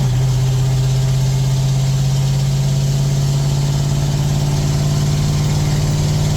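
International 9.0L V8 diesel, straight-piped, idling steadily and loud.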